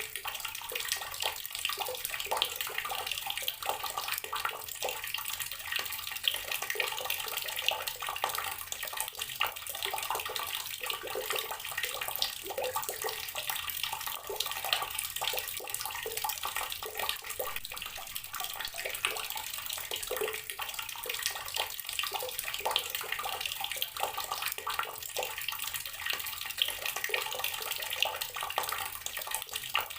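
Water running steadily from an outdoor tap and splashing below it, with many small irregular splashes.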